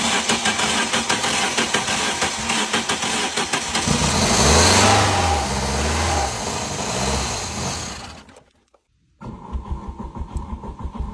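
Old car engine cranking on the starter motor, catching about four seconds in and running briefly with its revs rising and falling, then fading and dying around eight seconds. After a short pause it cranks again near the end.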